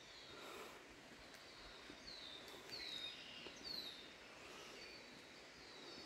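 Faint songbird calls: a series of short, high, downward-slurred notes, repeated irregularly over a quiet woodland background.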